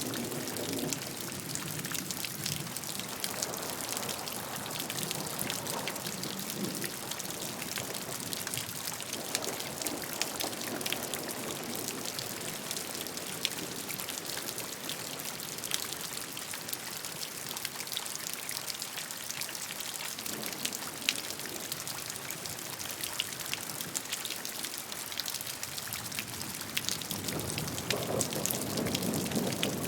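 Steady rainfall, countless drops pattering on a surface, with a low rumbling swell building near the end.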